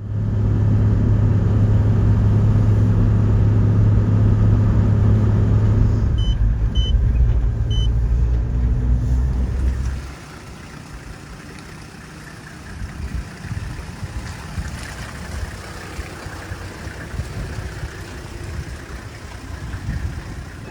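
Motor vehicle running, a loud steady low engine and road drone for about ten seconds, with three short electronic beeps about six to eight seconds in. It then drops to a much quieter steady background rumble.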